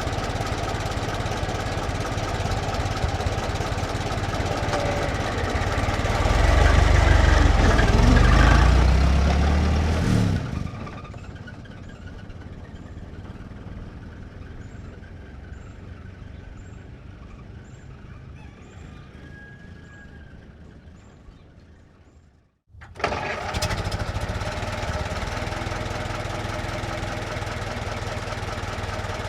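1924 Ford Model T's four-cylinder flathead engine idling, then revving with a rising pitch as the truck pulls away slowly and fades into the distance. After a short break the engine starts again abruptly and settles into a steady idle.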